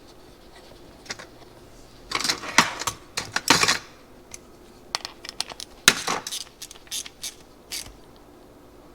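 Light metal clicks and clinks of small carburetor parts and a hand tool as the go-kart carburetor's float-bowl bolt is put back in and fastened. The clicks come irregularly, in a cluster about two seconds in and another from about five to eight seconds in.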